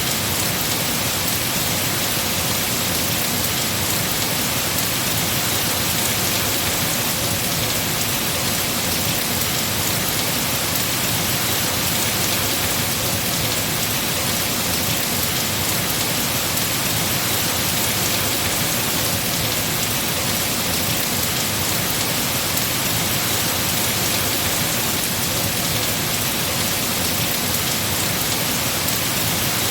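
Heavy rain falling on tree foliage, a steady, even hiss.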